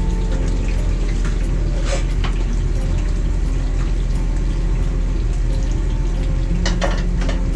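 Steady rushing noise in a food truck kitchen, strongest in the low end, with a few clinks and knocks of utensils or dishes about two seconds in and near the end.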